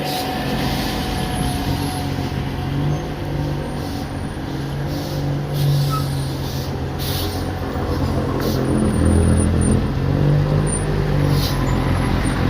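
Heavy truck's diesel engine running steadily, with short hisses every second or so. The engine gets louder about eight seconds in.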